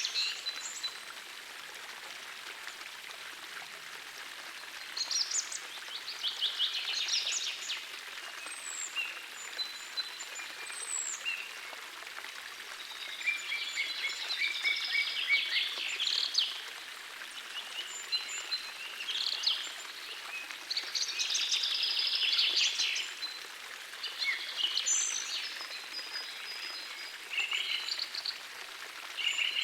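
Songbirds singing in repeated bursts of quick trilling phrases, with a few thin high whistles, over the steady rush of a gentle forest stream.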